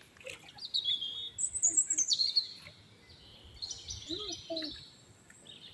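Small birds chirping and twittering in quick high calls, in two bouts with a short lull between them.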